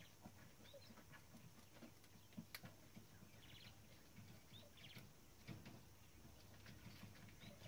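Near silence: faint room tone with scattered small clicks, one sharper click about two and a half seconds in, and a few short high squeaks.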